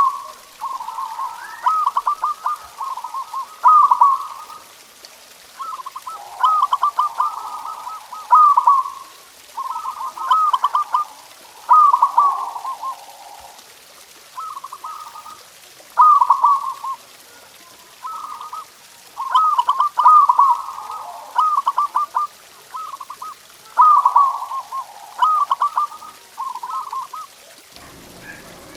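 Zebra dove (perkutut) cooing: short, stuttering, trilled coo phrases repeated about every two seconds.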